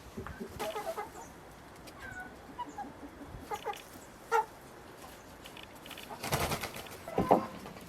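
Domestic chickens clucking in scattered short calls, with a brief rustling burst about six seconds in and a louder short sound near the end.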